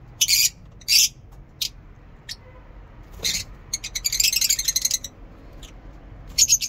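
Small cage birds giving sharp, high-pitched chirps: a string of single calls, with a quick run of rapid chattering about four seconds in.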